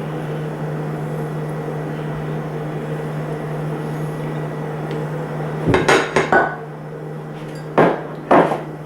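Kitchen dishes and utensils clattering: a quick run of knocks about six seconds in, then two more sharp knocks near the end, over a steady low hum.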